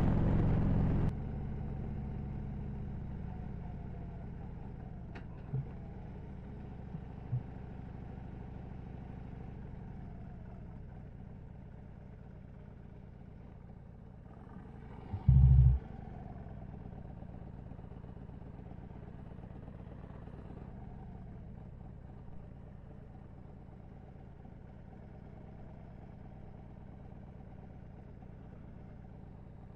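Harley-Davidson Road Glide's V-twin engine running as the bike rides slowly along, dropping sharply in level about a second in and then easing steadily quieter. A short, loud, low thump comes about halfway through.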